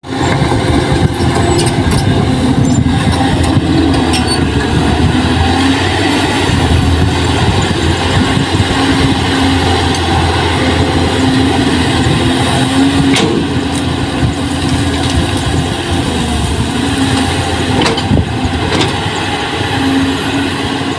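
Diesel engine of heavy machinery running steadily at an even speed, with an occasional sharp knock.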